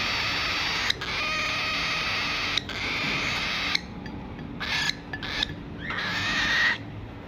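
Baby cockatiel's raspy food-begging calls during hand-feeding: long buzzy stretches of about a second each for the first few seconds, then shorter bursts and one longer call near the end.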